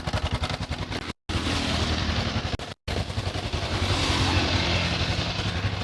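Honda Supra X 125's single-cylinder four-stroke engine idling with a rough, rapid pulsing; the owner's complaint is a rough noise from the cylinder block and head. The sound breaks off abruptly twice, about a second in and again near three seconds, then resumes.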